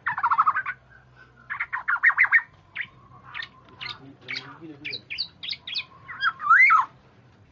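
Recorded kepudang (oriole) calls: two harsh, rapidly stuttering rasps in the first couple of seconds, then a run of short sharp notes, ending in a loud wavering whistle about six and a half seconds in.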